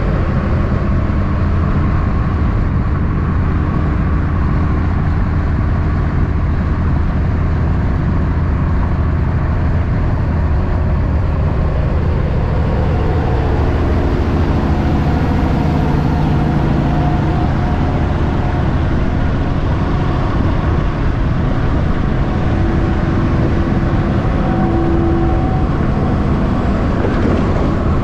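Heavy diesel road traffic: semi trucks running steadily with a continuous low rumble and no pauses.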